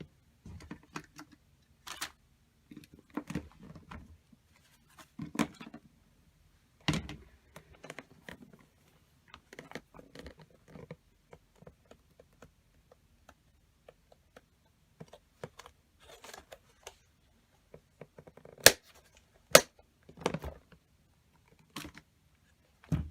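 Rummaging through a small box of paper craft supplies: irregular rustling of paper and light clicks and taps of small items being handled, with two sharper clicks a little past the middle.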